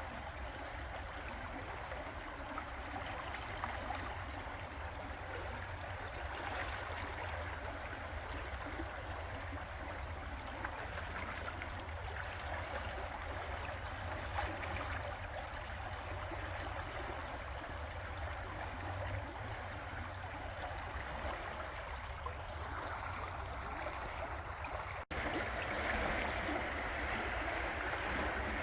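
River water flowing steadily with a continuous rushing and gurgling, over a low rumble. Near the end it breaks off for an instant and comes back a little louder and brighter.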